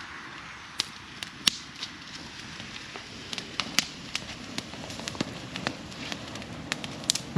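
Bonfire of cut tree branches burning and crackling, with irregular sharp pops over a steady low rush of flames.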